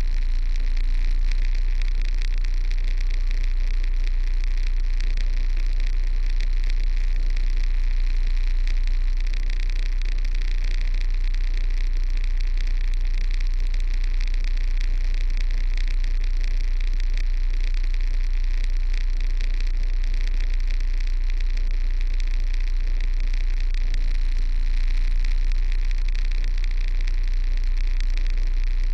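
Kenworth truck's diesel engine running steadily, a constant deep drone with an even hiss over it and no revving.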